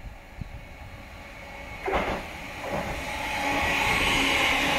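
Greater Anglia Class 720 electric multiple unit approaching and passing through the platform at speed. A short sharp noise comes about two seconds in, then the train's rush of wheels on rail builds from about three seconds in to a steady loud roar-like hiss as it goes by.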